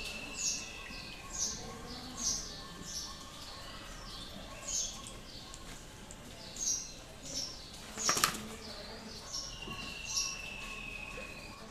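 Birds chirping in short, repeated high calls, with a long, slowly falling whistled note near the end. A brief loud clatter about eight seconds in.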